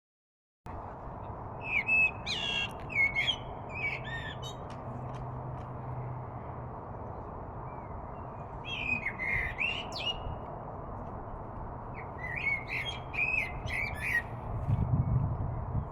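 Birds calling in three short bouts of chirps and squawks over a steady outdoor hiss, with a low rumble near the end.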